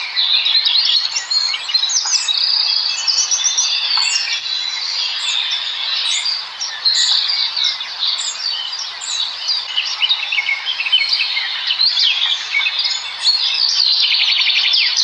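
Many small birds chirping and chittering at once, a dense overlapping chorus of short high calls and trills with no pauses.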